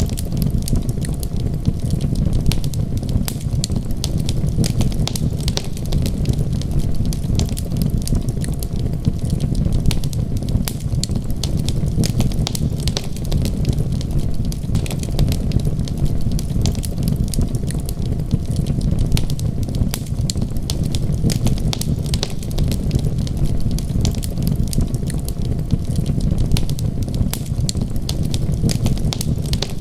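Wood fire crackling steadily with many sharp pops and snaps over a constant low rumble.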